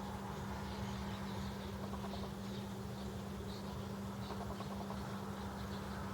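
Birds chirping, many short high chirps scattered throughout, over a steady low hum.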